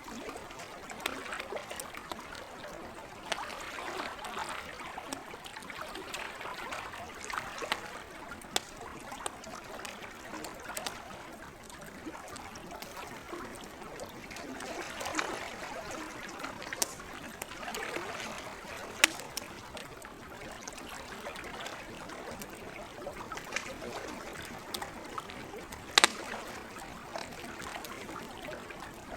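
Campfire wood crackling with scattered sharp pops, two of them louder, over lake water gently lapping and trickling in slow swells.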